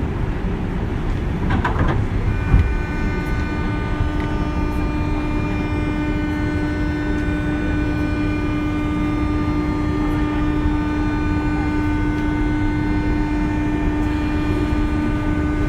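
JR West 201 series electric train running, heard from on board: a steady rumble of the wheels on the rails. About two seconds in, a steady hum of fixed pitch with a whine above it comes in and holds, and a single knock comes just after.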